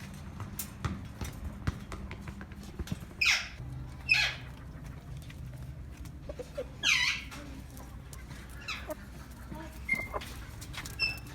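Backyard birds and poultry calling: several short, shrill calls, each falling steeply in pitch, spaced a second or more apart over a low steady hum.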